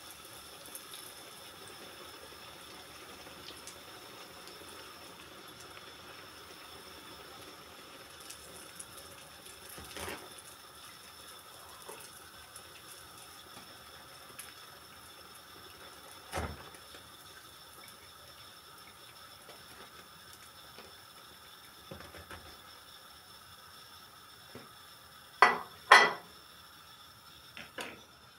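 Pişi dough frying in hot oil, a steady sizzle, with now and then a knock of a utensil against the pan; near the end two loud clacks about half a second apart, then a smaller one.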